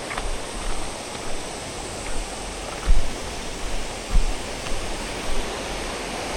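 Mountain stream rushing steadily, with two short low thumps about three and four seconds in.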